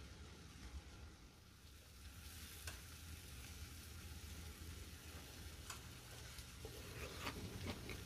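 Seasoned deodeok root frying in perilla oil in a pan: a faint, steady sizzle, with a few light taps about three, six and seven seconds in.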